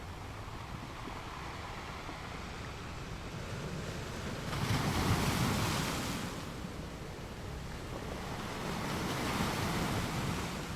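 Sea waves washing onto the shore over a steady hiss of surf. Two waves swell and break, a louder one about halfway through and a softer one near the end.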